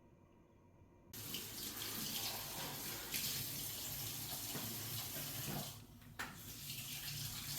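Water running steadily, like a tap. It starts suddenly about a second in and breaks off briefly near six seconds.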